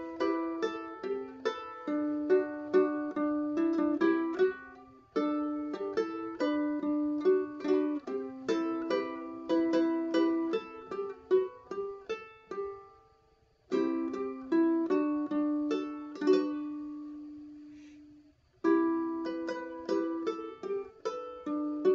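Solo ukulele fingerpicking a melody, single plucked notes and chords in a steady flow. A little past halfway the playing stops for a moment, then a few notes end on one long note left to ring and die away before the picking starts again near the end.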